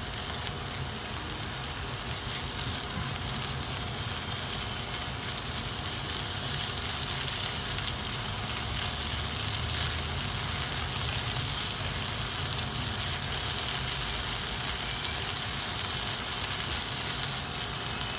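Chicken mince sizzling as it fries in a non-stick pan, being stirred with a silicone spatula: a steady hiss with light crackles, a little louder after about six seconds.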